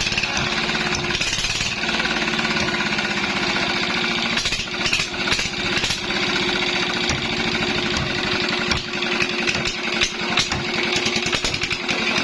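Small fishing-boat engine running steadily at a fast, even beat.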